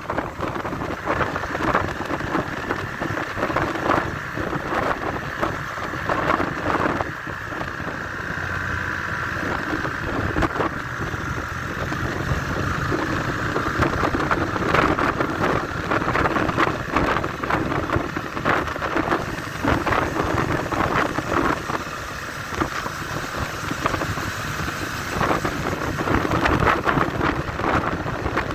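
Motorcycle riding, its engine running under heavy wind buffeting on the microphone, with a steady rumbling roar full of crackles.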